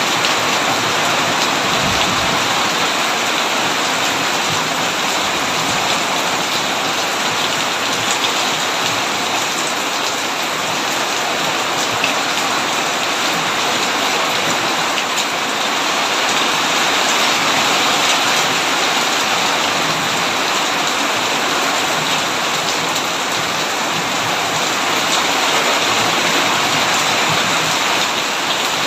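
Heavy rain falling steadily on a tin roof, a dense, even hiss of drops.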